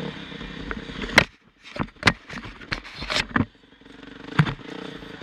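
Motocross bike engine running, then cutting away about a third of a second in, followed by a series of about seven sharp knocks and clacks with short quiet gaps between them.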